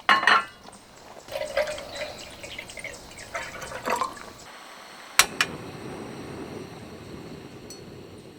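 Liquid being poured and splashing in several short goes, then a sharp click about five seconds in over a steady low hiss.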